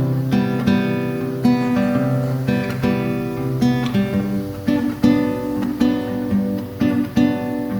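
Instrumental song intro played live: chords strummed on a guitar in a steady rhythm, each strum ringing on.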